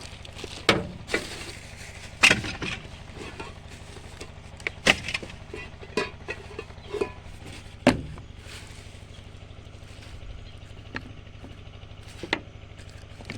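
Irregular knocks and clatters of objects being handled and set down, about eight sharp ones with the loudest about two seconds in and near eight seconds in, over a steady low mechanical hum.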